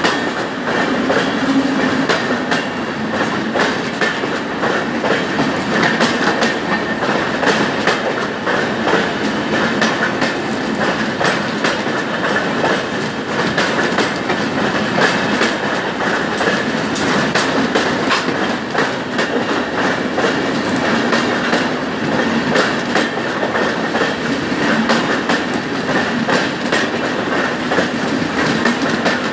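Express train of LHB passenger coaches running along the track, wheels clattering steadily over the rail joints in a continuous clickety-clack.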